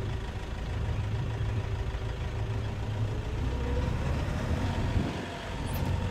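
Safari game-drive vehicle's engine idling with a steady low drone, its pitch rising a little about three to four seconds in. The sound cuts off suddenly at the end.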